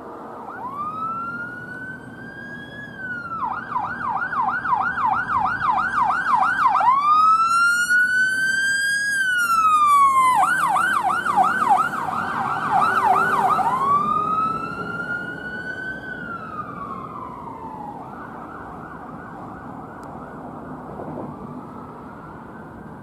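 Emergency vehicle's electronic siren switching back and forth between a slow wail and a fast yelp, about three sweeps a second. It grows louder toward the middle and then fades away, over the low rumble of traffic.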